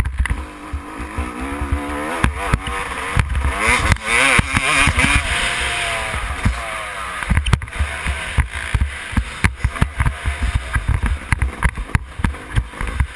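Motocross bike engines revving, their pitch rising and falling, mostly in the first half. Heavy wind buffeting on the microphone runs under them.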